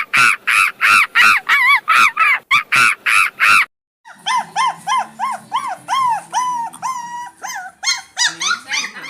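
A dog barking in quick, repeated high yaps, about nine in a row. After a short pause comes a second, faster run of lower barks.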